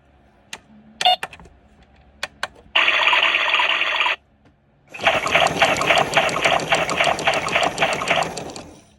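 Ddolddoli washing machine starting a wash: a few sharp clicks, then water rushing into the tub in two runs, the second longer one with a fast pulsing of about five beats a second.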